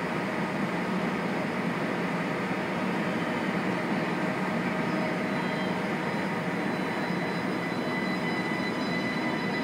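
ICE 1 high-speed train starting to pull out of the station: a steady hum of the train with thin high whine tones above it. The whine grows stronger as the train begins to roll, in the last couple of seconds.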